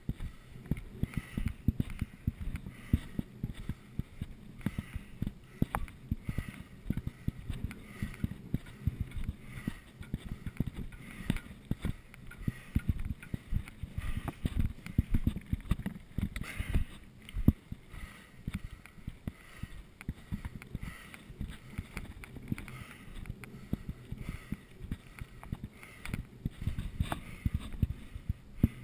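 Mountain bike rolling downhill over a rough trail: a steady low rumble from the tyres with constant rattling and many small knocks and clicks.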